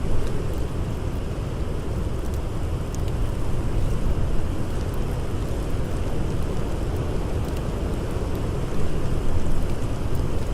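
Strong blizzard wind blowing steadily, a deep rumbling rush of noise, with a few faint crackles of a campfire.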